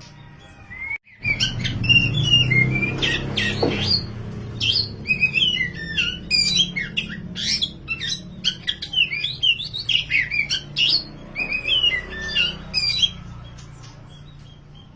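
Oriental magpie-robin (black 'kacer wulung' form) singing a fast, varied song of rapid whistled and chattering notes over a low background hum. The song starts about a second in and stops near the end.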